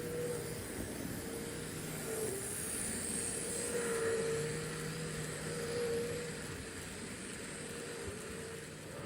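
Model train running on the track: a steady rumble of wheels on rail with a motor hum that wavers a little in pitch and loudness.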